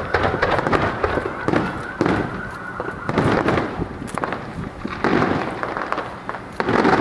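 Fireworks going off in quick succession: a run of sharp bangs and crackles, with heavier bursts about every second.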